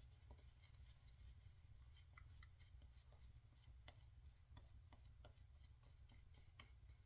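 Faint, short, irregular scratching strokes of a 1958 Gillette TV Special double-edge safety razor cutting stubble, over a low steady hum.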